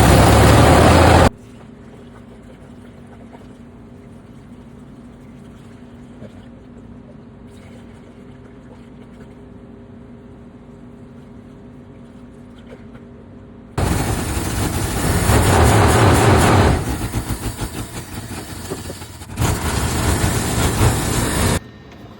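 1973 Ford F250 truck engine running, heard in edited pieces: loud at first and cut off abruptly about a second in, then a quieter steady hum for about twelve seconds, then running loud again with the level rising and falling before another abrupt cut near the end.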